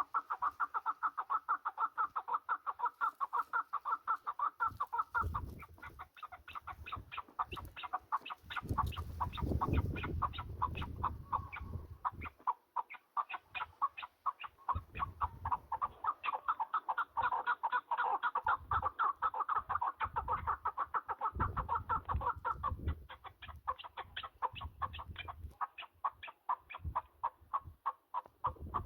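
Partridges calling in a fast, unbroken run of short repeated notes, many a second, with intermittent low rumbles underneath.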